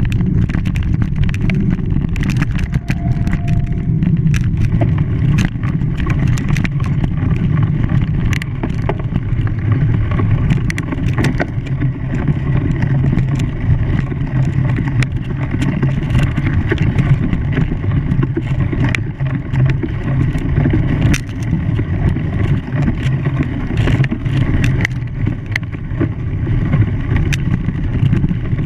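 Steady running noise of an engine or vehicle, dense and low, with many small clicks and knocks throughout.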